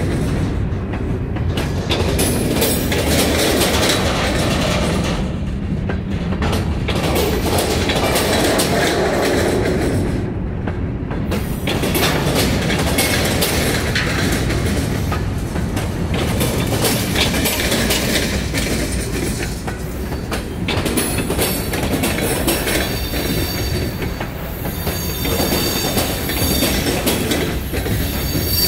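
Freight cars (covered hoppers, a tank car, gondolas) rolling past: a steady rumble of steel wheels on rail with repeated clicks as the wheelsets cross rail joints. A thin, high wheel squeal comes in during the last few seconds.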